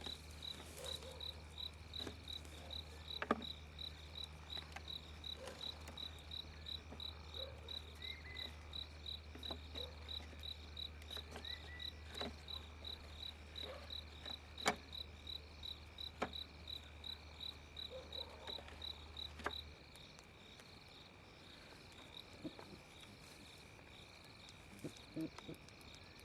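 Crickets chirping at night, an even chirp about three times a second over a steady high insect trill, with a low hum and a few scattered knocks; the chirping and the hum stop about twenty seconds in.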